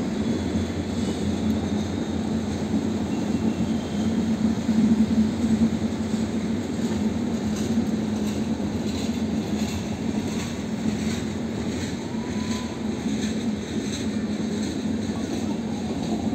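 A passenger train's coaches roll past on the rails in a steady rumble. A run of wheel clicks over rail joints stands out from about eight seconds in.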